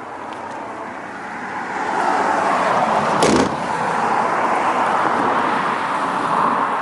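Motor vehicle noise that swells about two seconds in and then holds steady, with a short sharp sound about three seconds in.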